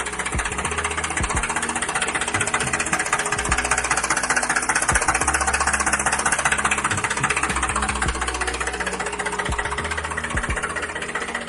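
Small electric motor running steadily with a fast, buzzing rattle, falling away at the very end.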